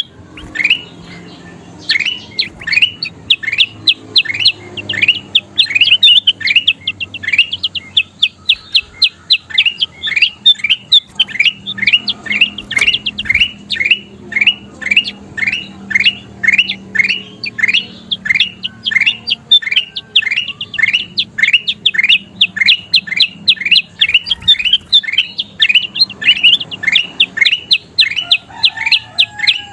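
Kutilang emas (a bulbul) calling in a fast, unbroken series of short, sharp rising notes, several a second, with only a brief pause about a second in.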